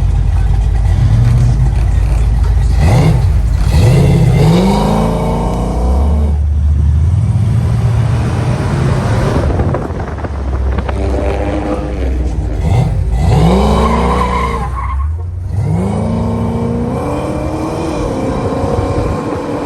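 Muscle car engines revving hard, the pitch climbing again and again, over continuous tyre screech from spinning tyres during burnouts and slides.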